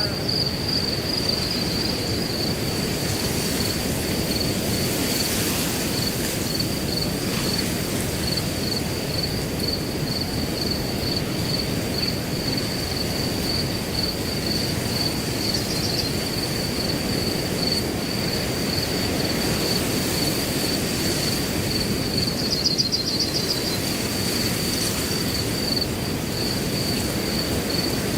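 Wind rushing through grass as a steady low rush, with a cricket chirping in a continuous high, finely pulsed trill over it. About four-fifths of the way through the chirping briefly turns louder and denser.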